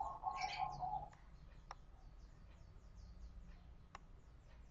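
Faint background birdsong: quick, high falling chirps repeating several times a second, with a warbling call held through the first second. Two faint single clicks come partway through.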